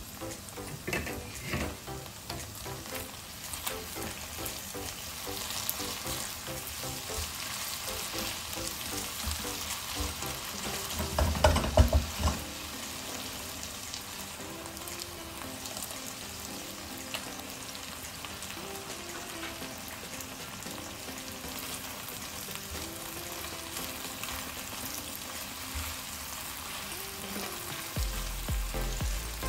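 Chicken pieces sizzling steadily in oil and a reducing soy-sauce glaze in a wok, with a spatula stirring them. There is a brief louder burst of stirring and scraping about midway through.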